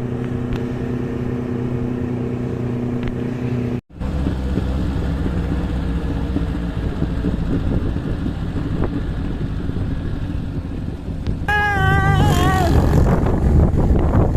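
Motorcycle engine running while riding uphill, with wind buffeting the microphone; the sound cuts out for an instant about four seconds in, then turns rougher and windier. Near the end a brief wavering high tone sounds over it, and the wind gets louder.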